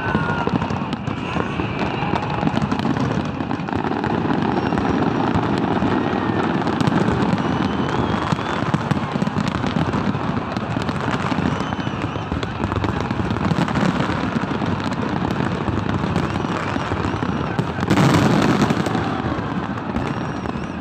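A large fireworks display: dense, continuous crackling and popping from many shells at once, with a louder burst about eighteen seconds in.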